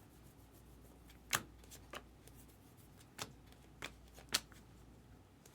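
Baseball trading cards being handled and flipped through, with five short sharp clicks and snaps, the loudest about a second and a half in.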